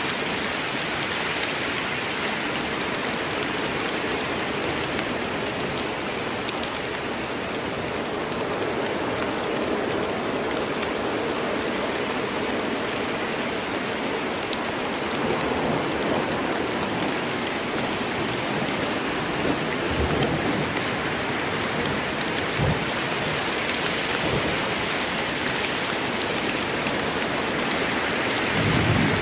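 Steady, heavy rain falling in a forest, a dense hiss with the tick of individual drops. A few brief low thumps come through in the second half.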